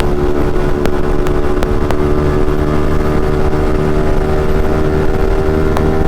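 Yamaha MT-15's single-cylinder engine running at a steady speed through an Akrapovic aftermarket exhaust, with a few sharp exhaust pops, most in the first couple of seconds and one near the end.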